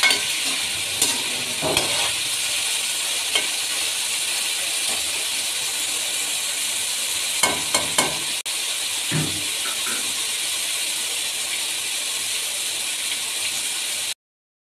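Sliced bitter gourd, frozen before cooking, frying in hot oil in a metal pot: a steady sizzle with scattered small crackles. It cuts off suddenly near the end.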